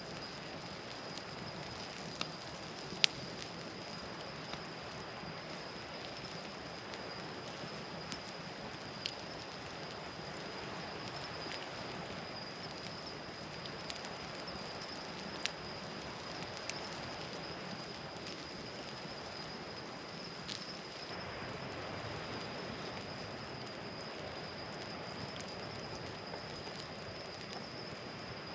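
Campfire crackling: a steady hiss broken by a few sharp, isolated pops, with a thin steady high whine underneath.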